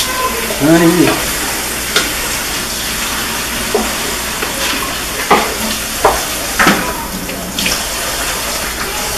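Ground meat, sausage, zucchini and squash sizzling in a large stainless steel pan, stirred with a wooden spoon that knocks and scrapes against the pan several times.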